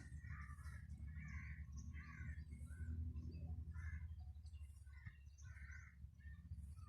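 A bird calling over and over in short notes, about one or two a second, over a steady low rumble.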